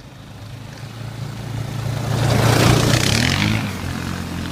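Quad (ATV) engine driving past through snow, growing louder to a peak about halfway through and then easing off as the engine revs up and pulls away.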